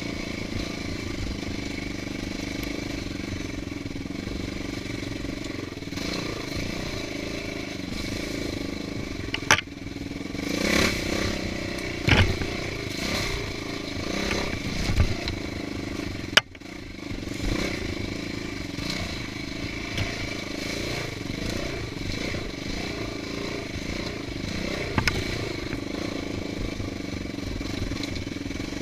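Dirt-bike engine running steadily while riding a trail, with a few sharp knocks and clatter about a third to halfway through.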